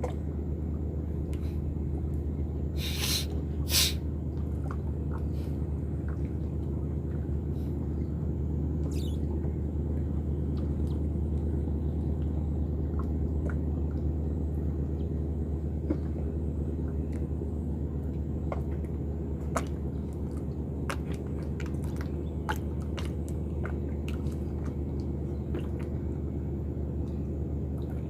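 A motor running at a steady low rumble, with a pair of sharp clicks about three to four seconds in and scattered light ticks later on.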